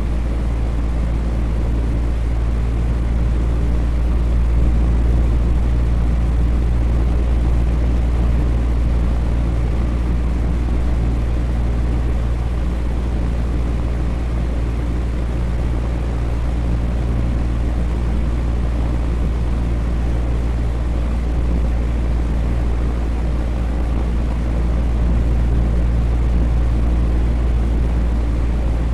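Electric fan running steadily: an even whooshing noise over a strong low hum, with a few faint steady low tones and no change in speed.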